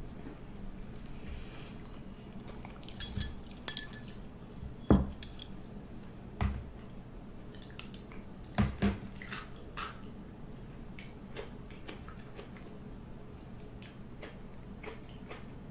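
Eating utensils clinking against dishes: two ringing clinks about three seconds in, then a few dull knocks and scattered small clicks, with some chewing.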